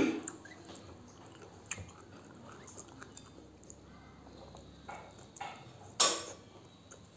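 Close-up eating sounds: a person chewing spicy pork and mustard leaf, with small wet mouth clicks and smacks. A louder bite comes about six seconds in.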